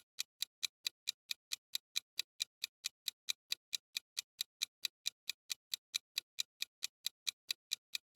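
Clock-ticking sound effect: a steady run of sharp, even ticks, roughly four and a half a second, like a quiz countdown timer.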